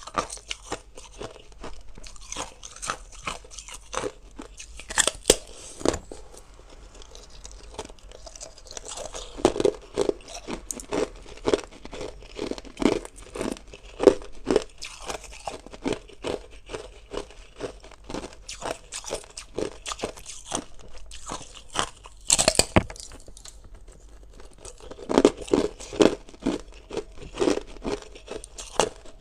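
Hard ice being bitten and chewed close up: runs of loud, sharp crunches and cracks, a few bites much louder than the rest.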